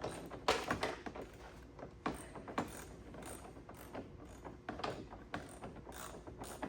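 Hand ratchet clicking in short, uneven strokes as bolts are worked loose behind the car's dashboard.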